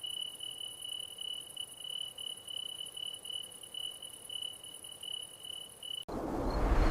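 Crickets chirping in a steady, high, pulsing trill. About six seconds in it cuts off abruptly into a much louder, even rushing noise.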